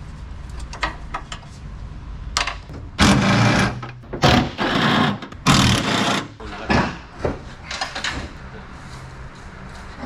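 A power tool runs in three short bursts of about a second each, with clicks and knocks around them, undoing the car's hood hinge bolts.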